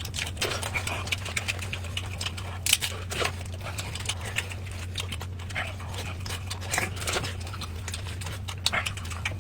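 Close-miked eating sounds: wet chewing and lip-smacking in irregular short clicks, over a steady low hum.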